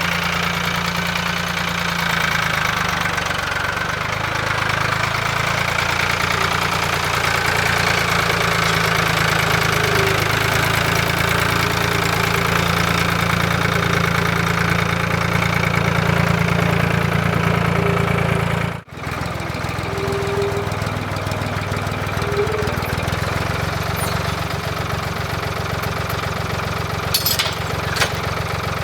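An engine running steadily. It breaks off abruptly about 19 s in and picks up again straight after, with a few sharp clicks near the end.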